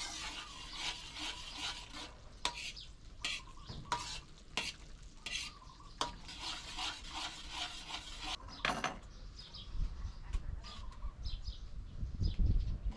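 A utensil stirring and scraping food in a pan, with repeated sharp knocks against the pan over a frying sizzle. A low rumble takes over in the last few seconds.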